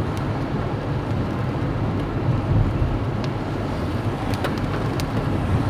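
Steady low engine and road rumble of a moving car, with a few faint ticks.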